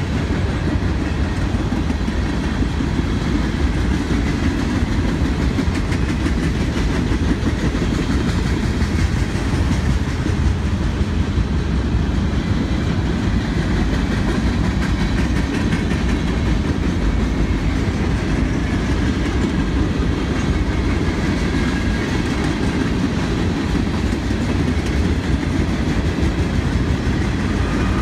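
Freight train cars (boxcars, tank cars and covered hoppers) rolling steadily past, their steel wheels rumbling on the rails.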